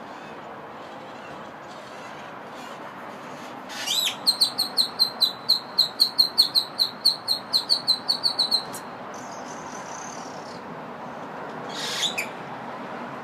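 A bird singing: about four seconds in, a rising note, then a fast run of about twenty high, sharp repeated notes over some four seconds, a fainter warble after it, and one more short call near the end, over a steady background hum.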